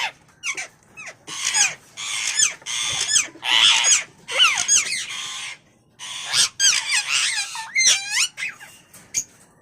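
Indian ringneck parrots screeching and squawking in a run of harsh calls with quick swoops in pitch, with a short break about halfway through.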